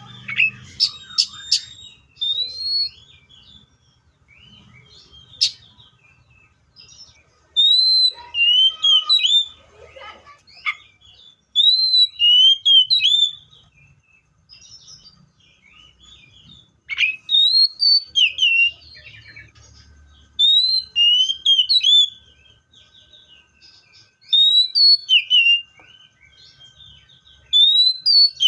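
Magpie-robin singing loud, clear whistled phrases of rising and falling notes, in bursts of a second or two every few seconds.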